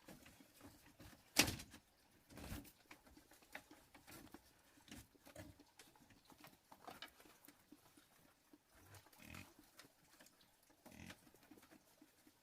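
A few sharp knocks among faint scattered clicks and small handling noises, the loudest knock about a second and a half in and another about a second later.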